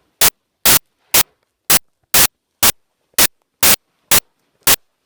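Short, loud bursts of static hiss, about two a second, with almost nothing between them. It is a regular electronic fault on the recording, not a sound in the room.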